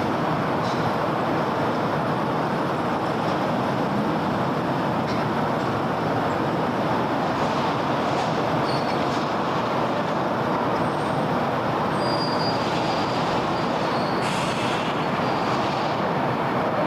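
Steady wash of dense city road traffic, with a few brief high squeals about three-quarters of the way through.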